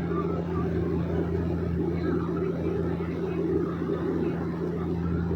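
Small propeller airplane's engine droning steadily, heard inside the cabin, with a constant low hum and rumble.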